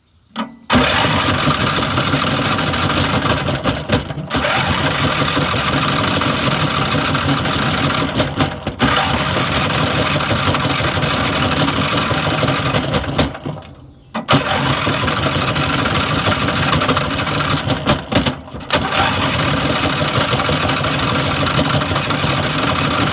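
Riding lawn mower engine being cranked by its starter motor, which is fed through wires bypassing a dead starter solenoid. It cranks in long runs with short breaks about 4, 9, 14 and 18 seconds in, and the engine does not run on its own.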